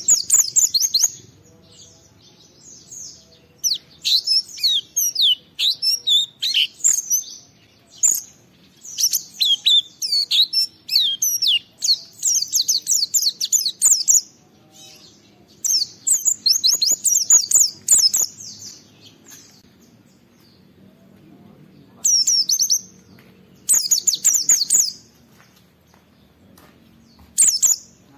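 Pleci (white-eye) singing in rapid high-pitched twittering phrases, each a second or two long, with short pauses between bursts.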